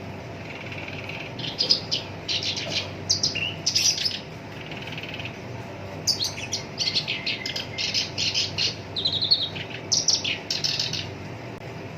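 Black-browed reed warbler singing: phrases of rapid, rough chattering notes broken by short pauses, with a softer buzzy trill in between.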